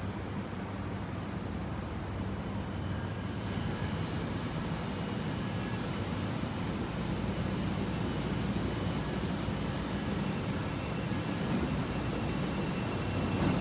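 Rumble of an approaching CTA 'L' train over steady city background noise, growing gradually louder, with a faint high whine joining about three seconds in.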